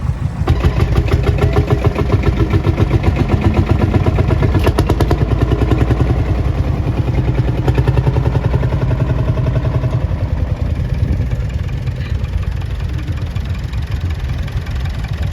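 Tractor engines running at idle in a waiting queue, a steady pitched engine note with a strong low end that eases off a little after about ten seconds.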